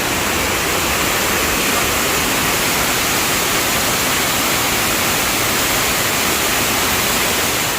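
Steady, loud rush of water from the Sai Yok Noi waterfall, pouring and splashing close by.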